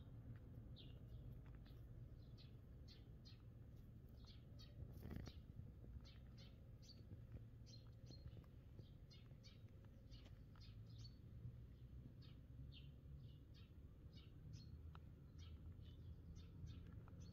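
Faint bird chirping: short, high chirps repeating about two a second throughout, over a low steady background rumble.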